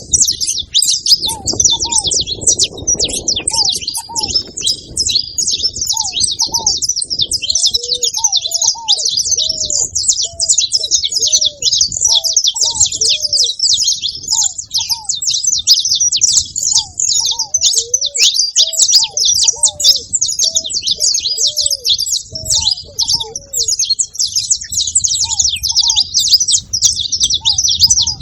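A group of saffron finches chirping and singing together in a dense, continuous chatter of high notes. A lower-pitched bird call repeats underneath throughout.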